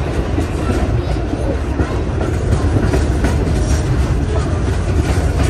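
Steam-hauled heritage passenger train running along the track: a steady rumble of the carriages' wheels on the rails.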